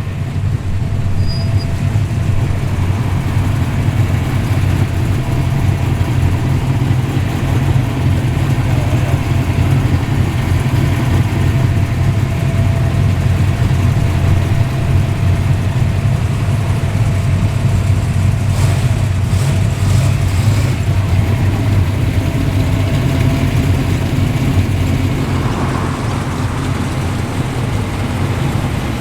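Car engine idling with a loud, steady, deep rumble.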